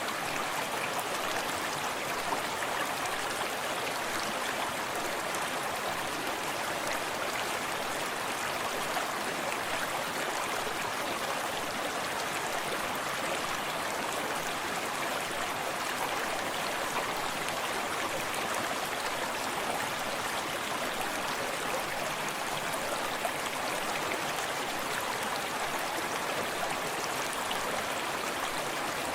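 Forest stream running steadily, a constant rush of water with soft lapping and splashing close by.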